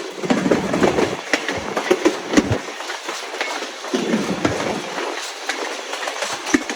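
Passenger train coach rolling along the track, heard from inside the car: a steady running noise with irregular knocks and clicks from the wheels and the car body.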